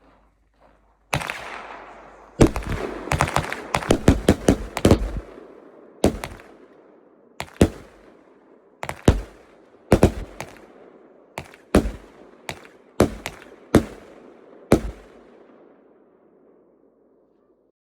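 Fireworks going off: sharp bangs that each ring out in a long echoing tail. A rapid cluster of bangs comes a couple of seconds in, then single bangs about once a second, and the last fades away near the end.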